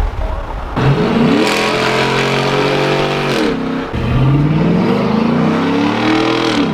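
Ford Raptor with a Corsa exhaust accelerating hard at full throttle. The engine note climbs steeply about a second in, holds high, and drops back near the middle. It then climbs again and drops off near the end.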